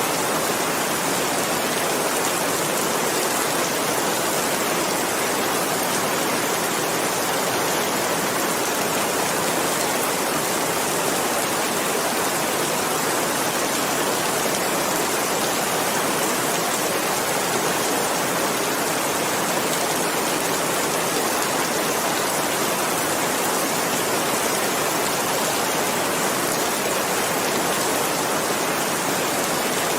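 Steady heavy rain, a dense even hiss of drops without letting up.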